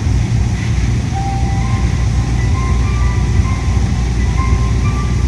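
Steady low rumble of a Yui Rail monorail train running, heard from inside the cabin, with air-conditioning noise. Short, faint tones at changing pitches come and go over it.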